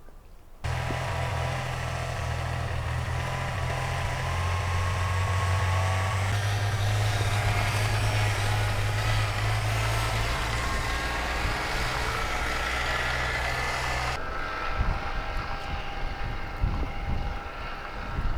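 Car driving: a steady low engine drone with tyre and road hiss, starting abruptly about half a second in. The hiss drops away suddenly about fourteen seconds in, leaving a lower rumble.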